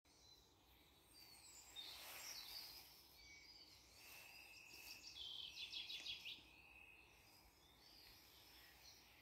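Faint birdsong: scattered high chirps and whistles, with a rapid trill of repeated notes about five seconds in.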